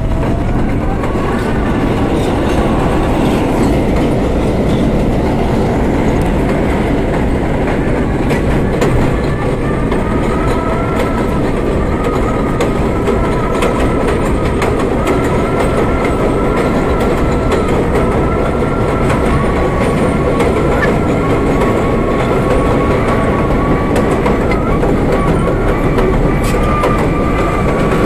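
R32 New York subway car running at speed, wheels clacking over rail joints under a constant rumble, with a steady high whine that comes in about ten seconds in and holds.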